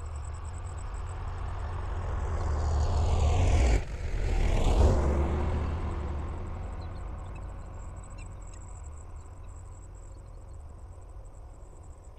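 A motor vehicle passes close by: its engine rumble swells, peaks about four seconds in, then fades away over the following seconds. Crickets chirp steadily underneath.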